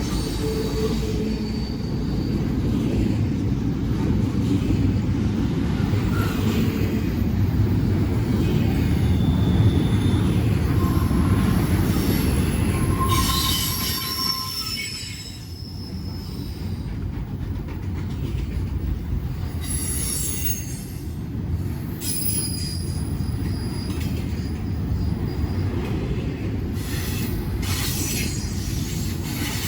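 Freight train cars rolling past with a steady rumble, and steel wheels squealing at intervals in short high tones. The rumble eases briefly about halfway through, then carries on.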